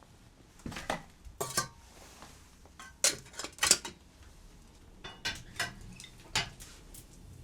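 Metal utensils clinking and scraping against dishes, a dozen or so short sharp knocks in uneven clusters.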